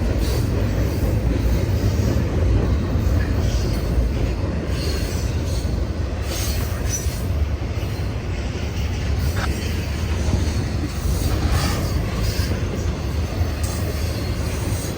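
CN freight train rolling past: a steady low rumble of freight cars on the rails, with scattered clicks and knocks from wheels passing over rail joints.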